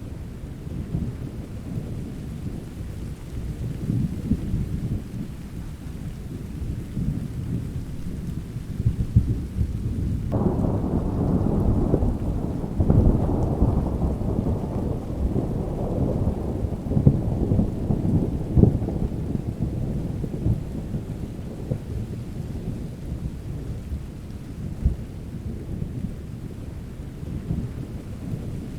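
Steady rain with continual low thunder rumbling. About ten seconds in, a louder thunderclap rolls in suddenly and fades slowly over the next ten seconds or so.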